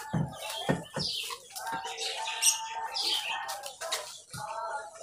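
Birds chirping over and over in short, high, falling chirps, with a few soft thuds in the first second.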